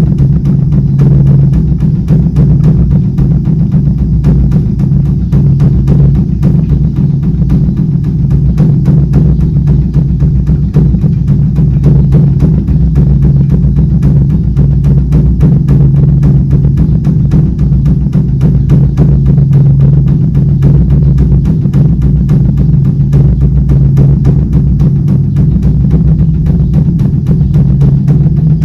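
Korean Buddhist dharma drum (beopgo) being beaten with two sticks: loud, rapid, unbroken strokes with a deep boom, in a continuous rolling rhythm.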